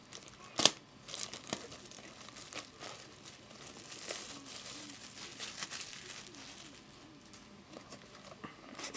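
Plastic shrink-wrap crinkling and tearing as a sealed trading-card hobby box is unwrapped, with a sharp snap under a second in and scattered crackles after it.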